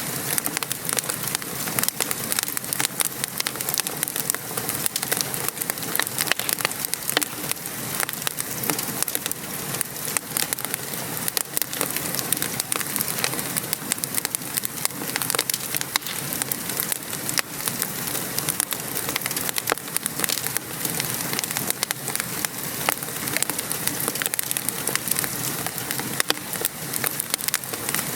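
Steady patter of rain mixed with a crackling wood fire, with many small sharp crackles and pops scattered throughout.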